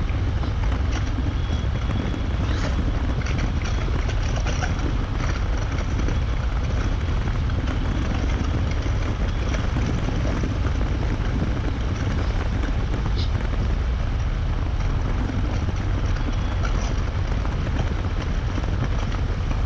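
Harley-Davidson Road Glide Limited's V-twin engine running steadily at cruising speed, mixed with wind rush, heard through a helmet intercom microphone.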